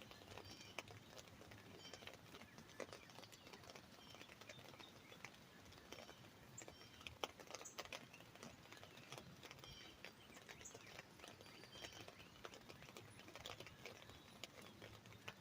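Faint, scattered raindrops tapping on an umbrella canopy, irregular single ticks, with birds chirping in short repeated calls.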